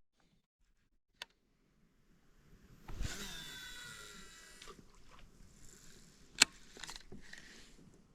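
Fishing reel spool spinning out on a cast: a sudden whirring whine that falls in pitch as the spool slows, then a sharp click a few seconds later.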